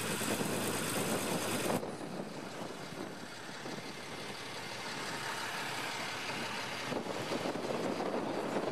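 Vehicle engine running, with a sudden change in the sound about two seconds in.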